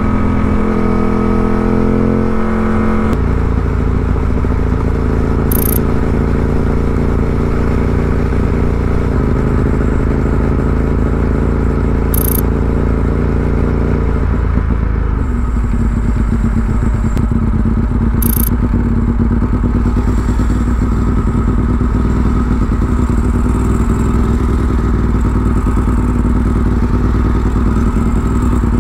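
Ducati 748R's 748 cc L-twin engine through a Termignoni exhaust, running under way. The engine note drops in pitch in a few steps as the bike slows, then settles to a steady low-revving beat in slow traffic.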